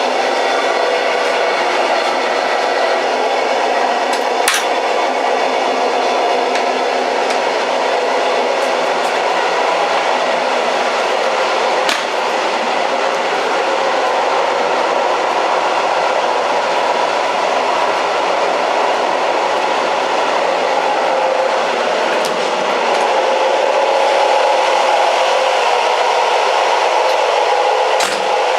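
Old train running steadily: a continuous rumbling, rattling noise of the moving train, with a few sharp knocks along the way. It grows slightly louder past the middle.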